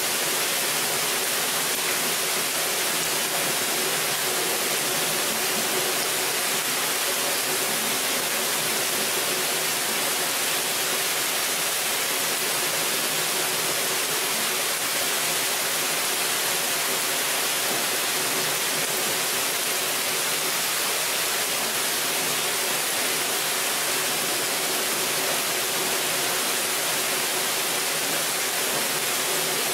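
Rain falling steadily on the leafy canopy of a broadleaf forest: an even, unbroken hiss of drops on leaves.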